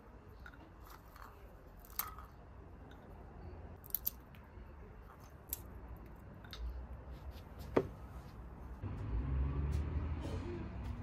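Scattered light clicks and taps of small objects being handled, a few seconds apart. A low rumble comes in about nine seconds in.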